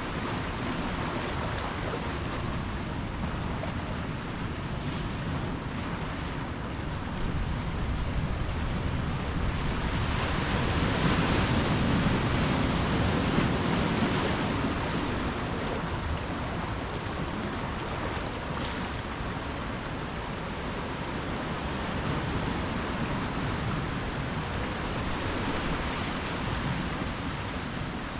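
Ocean surf: waves breaking and washing on the shore as a steady rush that swells to its loudest about halfway through and then eases back.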